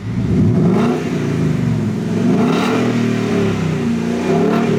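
Ford Mustang GT's 5.0 V8 revving through its exhaust. It comes in suddenly and its pitch rises and falls several times.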